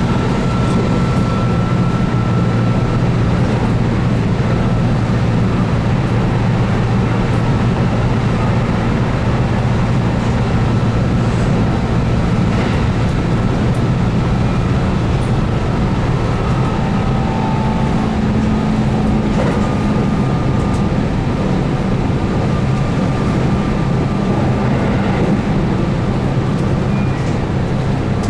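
Keihan 8000 series electric train running at speed: a steady rumble of wheels on rail and the DC traction motors under field-added excitation control, with a faint high whine over it.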